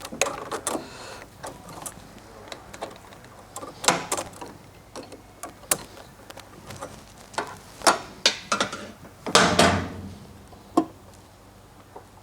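Oil filter pliers clicking and knocking against the spin-on oil filter of a Kohler lawn-tractor engine as the filter is worked loose. The sharp clicks and knocks are irregular, with a longer, louder clunk about nine and a half seconds in.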